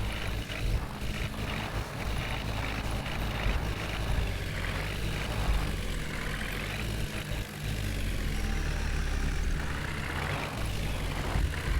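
Heavy diesel engines running steadily under load, with the pitch rising and falling as they rev, while tractors and a JCB work to pull a loaded trolley stuck in mud.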